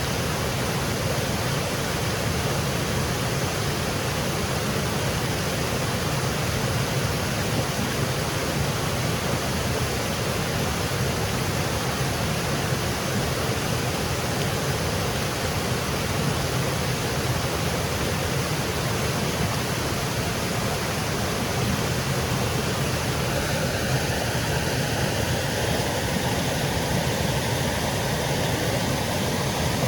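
Woodland waterfall cascading: a steady, even rush of falling water. A faint drone joins about three-quarters of the way through, rising slowly in pitch.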